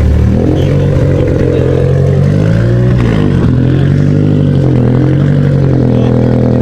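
A car engine running close by at steady revs, its pitch dipping briefly and climbing back a couple of times.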